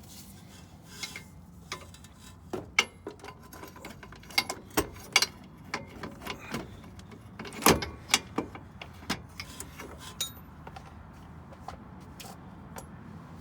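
Hand tools clinking and knocking against metal suspension parts in scattered, irregular strikes, the loudest a little under eight seconds in.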